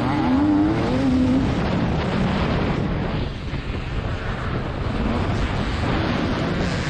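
TM300 two-stroke motocross engine revving up briefly, then a long stretch of rough, unpitched rumble and hiss with little clear engine tone, before the engine's rising pitch comes back near the end.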